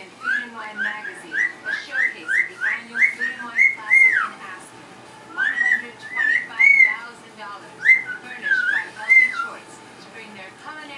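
Pet bird whistling a tune: a quick run of short rising whistled notes, then after a brief pause a few longer notes that rise and fall.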